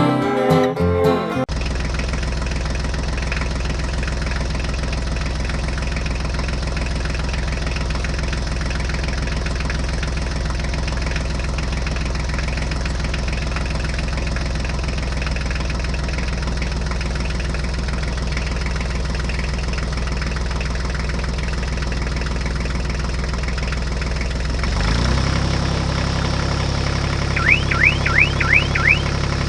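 Guitar music cuts off about a second in, giving way to a tractor-type engine idling steadily. About 25 seconds in the engine note changes, and near the end a quick run of about six short rising chirps sounds over it.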